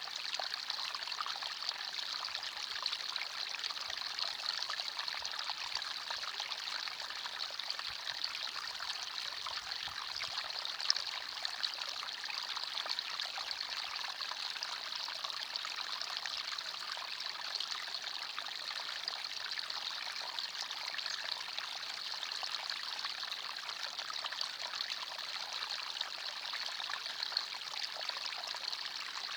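Forest stream flowing steadily with a light, high trickling babble, and one brief louder splash near the middle.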